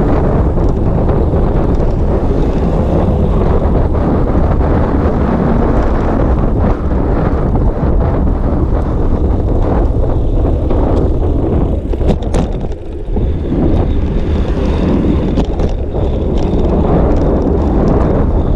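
Wind buffeting an action camera's microphone on a moving bicycle: a loud, steady low rumble mixed with road noise. It dips briefly with a few sharp clicks about twelve seconds in.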